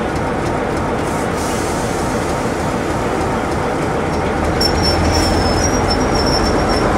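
A train running at a station platform, a steady rumble with a low hum; a high thin squeal of steel on rail starts about four and a half seconds in and the sound grows a little louder toward the end.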